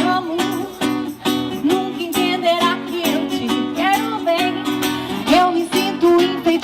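Music: a strummed acoustic string instrument keeps a steady rhythm, with a gliding melody line over it.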